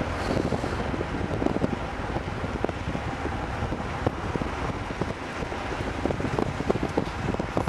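A train rolling past, its wheels giving off irregular knocks, with wind rumbling on the microphone.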